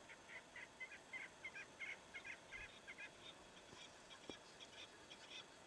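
A bird calling faintly in a rapid run of short, clipped notes, about four a second, which grows fainter about three seconds in.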